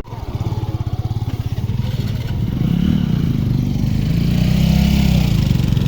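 Motorcycle engine running with a pulsing exhaust beat that grows louder about two seconds in as the throttle opens.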